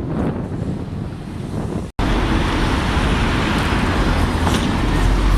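Road traffic noise from passing vehicles. About two seconds in the sound cuts abruptly to a louder, closer rumble of traffic.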